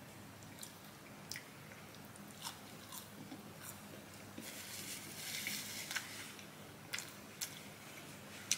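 Faint close-up eating sounds: biting and chewing fast food, with soft crunches and scattered mouth clicks, and a short stretch of soft rustling about halfway through.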